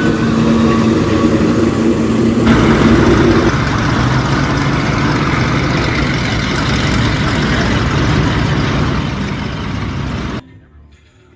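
A car engine running, with a steady hum for the first few seconds, then a louder, rougher rush of noise. The sound cuts off abruptly near the end.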